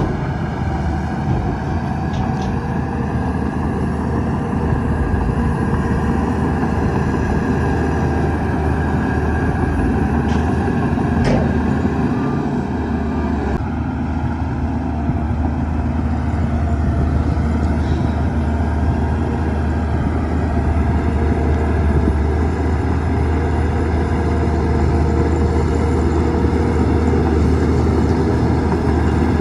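Shantui DH17-C2 bulldozer's diesel engine running steadily under load while pushing dirt, with a few short clicks.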